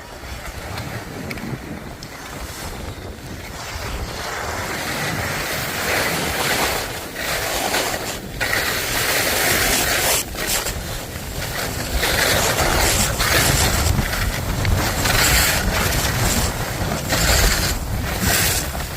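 Wind rushing over the microphone together with the hiss and scrape of skis on snow during turns. The noise swells and fades again and again and grows louder as the run goes on.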